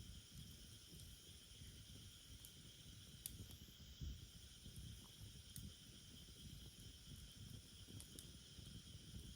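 Faint wood fire burning, with a few sharp pops of the wood and a low flickering rumble, against a steady high chirring of insects.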